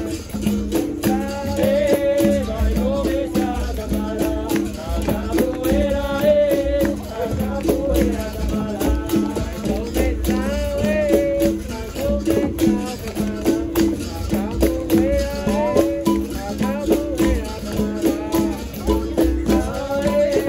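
Capoeira roda music: a berimbau repeats a rhythm of two alternating notes with a caxixi rattle, over hand percussion and voices singing.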